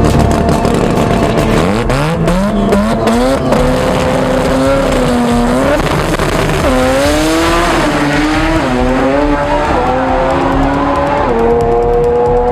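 Drag car's engine at the start line: sharp pops in the first second, then it revs up and is held at high revs, its pitch dipping and climbing again several times, and stepping up near the end.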